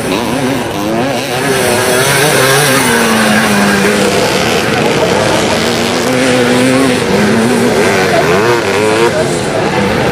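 Several classic motocross motorcycle engines racing on the track, revving up and down with overlapping pitches that rise and fall as the bikes accelerate and back off.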